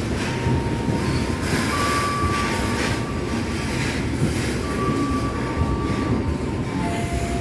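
Indonesian freight train rolling past, its wagons rumbling on the rails, with thin high wheel squeals that come and go several times.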